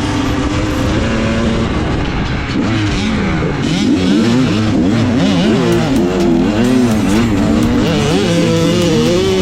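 Dirt bike engine running under changing throttle: fairly steady at first, then from about two and a half seconds in the pitch rises and falls in quick, repeated surges.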